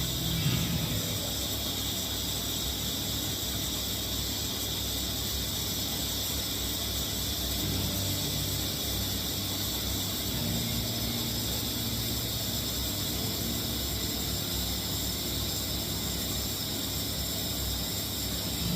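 Steady workshop background noise: an even hiss with a faint low hum, with no distinct strikes or tool events.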